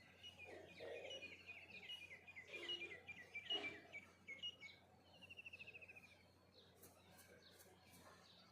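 Songbirds chirping: a run of quick, repeated high chirps for the first few seconds, then a fast, even trill about five seconds in.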